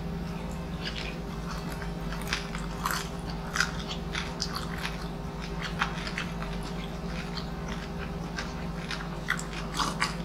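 Close-up mouth sounds of people biting and chewing crispy pata (deep-fried pork knuckle) and rice: scattered short crunchy and wet clicks, over a steady low hum.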